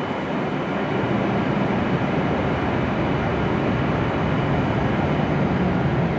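W7 series Shinkansen train standing at the platform just after arrival, its equipment running with a steady hum and a thin high whine that fades out near the end.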